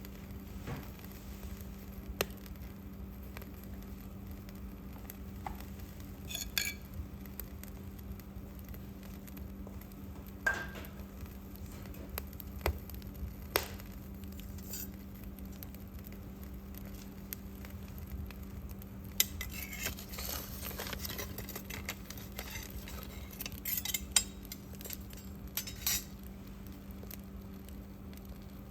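Scattered light clinks and knocks of objects being handled, coming thicker in the last third, over a steady low hum.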